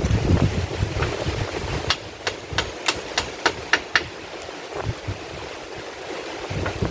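A quick run of about seven sharp knocks, one every third of a second or so, over steady noise of wind and rain.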